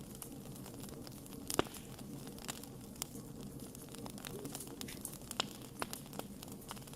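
Campfire of burning wood crackling, with irregular sharp pops and snaps, the loudest about one and a half seconds in. Underneath is a low steady rumble.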